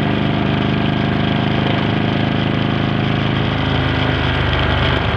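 Motorcycle engine running steadily while riding along at road speed.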